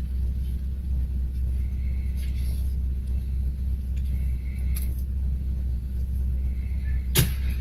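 Steady low rumble of a car on the move, with a few light clicks and one sharp knock near the end.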